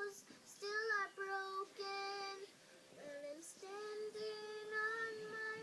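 A young girl singing, her voice coming from an iPad: held notes in short phrases, with a brief pause about halfway through.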